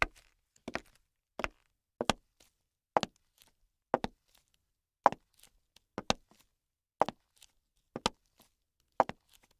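Sharp knocks repeating at an even pace of about one a second, most of them followed closely by a softer second knock.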